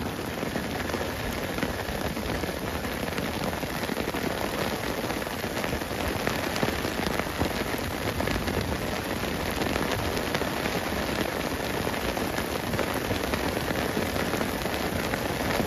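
Rain pattering steadily, a dense crackling hiss that holds an even level and stops abruptly.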